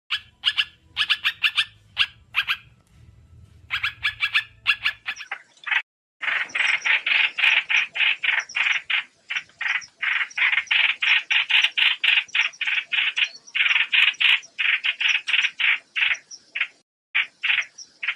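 Recorded lure calls of a trao trảo songbird: fast runs of short, harsh chattering notes, about five a second, with brief pauses between runs.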